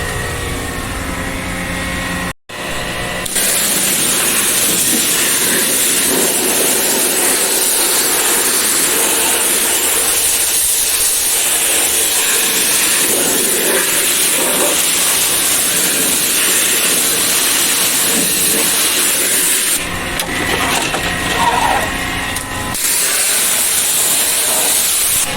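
High-pressure water spray hissing steadily against the air-conditioner's parts, broken off briefly near the end. It comes after a few seconds of a machine humming.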